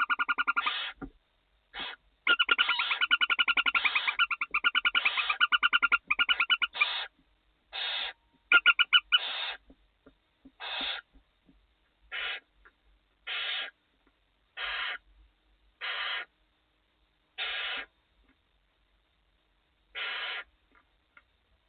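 Barn owls calling in a nest box: a dense run of raspy, pulsing calls, then single hissing calls about half a second long that come every second or two and space out further, with a few loud clicks about eight seconds in.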